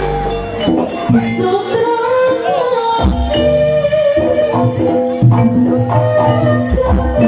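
Live jaranan music from a Javanese gamelan ensemble: drums beating a busy rhythm under a held, wavering melody line, with repeated deep sustained notes.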